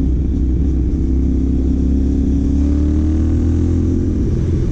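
CFMOTO 450NK's parallel-twin engine running through a Yoshimura AT2 replica slip-on exhaust while riding, heard through a helmet intercom microphone. The engine note climbs steadily from about two and a half seconds in as the bike accelerates, then drops back near the end.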